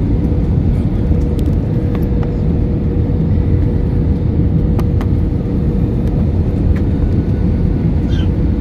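Airliner cabin noise during landing: a steady, loud low rumble of engines and airflow with a constant hum, broken by a few faint clicks.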